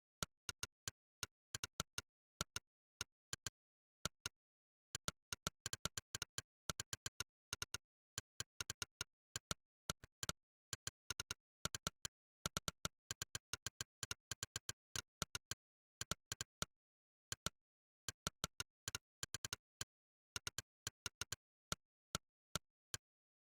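Monkeytype's synthetic 'click' keystroke sound effect: one short, sharp click per keypress, coming in quick irregular runs as words are typed, with brief pauses between runs. The clicks stop just before the end.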